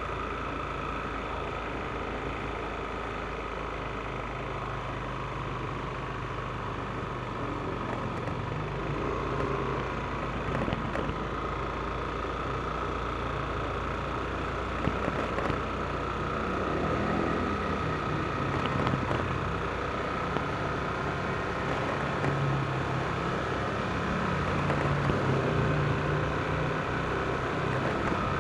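Yamaha NMAX scooter's single-cylinder engine running while riding, with a steady high tone over the engine hum and wind and road noise. The engine pitch shifts a little, and the sound gets somewhat louder in the second half.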